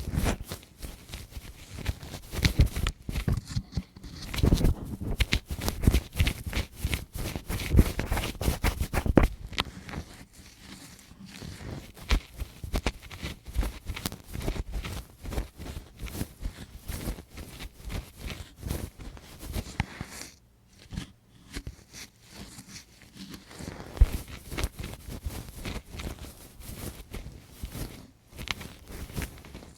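Close-miked ASMR ear-cleaning sounds: a tool scraping, rubbing and clicking right against a Tascam recorder's microphones in a dense, irregular run of crackly scratches, with a brief lull about twenty seconds in.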